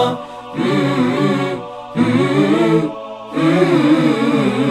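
Unaccompanied voices chanting a vocal line of a religious praise song in three phrases with short breaks between them.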